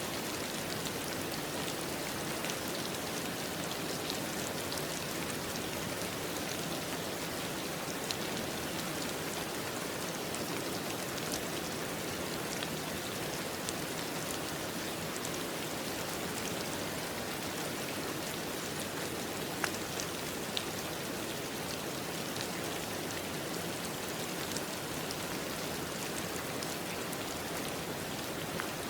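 Steady rain falling, with the patter of individual drops on a surface.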